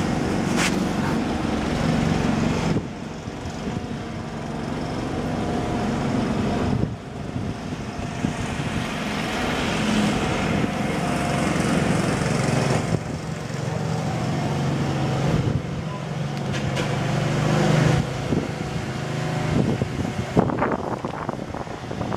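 An engine running steadily, in several short clips joined with abrupt cuts.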